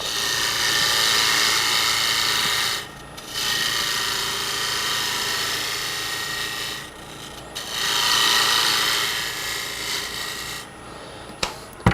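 Turning gouge cutting the outside of a spinning maple lid blank on a wood lathe, a steady rasping hiss in three long passes with short breaks between them, trimming the lid down to thickness.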